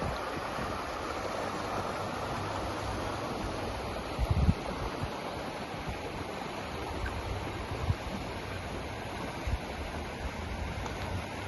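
Steady rushing of flowing river water, with a few short low thuds, the loudest about four seconds in.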